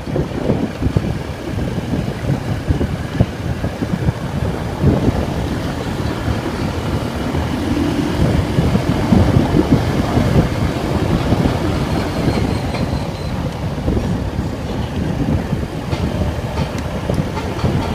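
Vento Terra motorcycle on the move: engine running under steady road and wind noise, with wind buffeting the microphone in irregular gusts.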